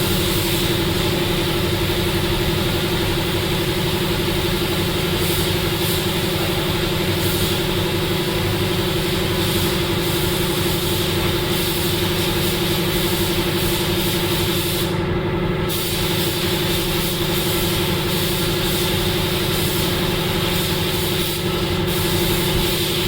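A motor running steadily: an even, unchanging hum with several fixed tones.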